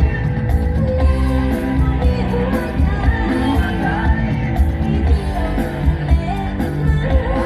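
Live Thai luk thung band music with a woman singing over a heavy bass beat.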